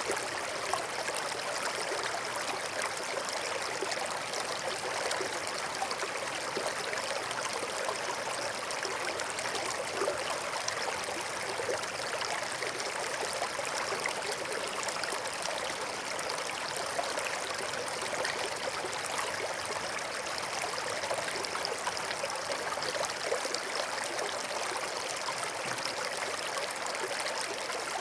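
A forest stream flowing steadily over stones, a continuous babbling and trickling of shallow water.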